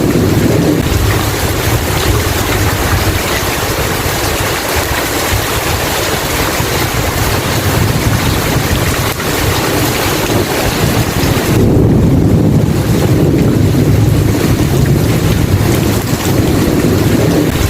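Steady heavy rain in a thunderstorm with a continuous low rumble. About two thirds of the way in, a rumble of thunder swells and grows louder for a few seconds.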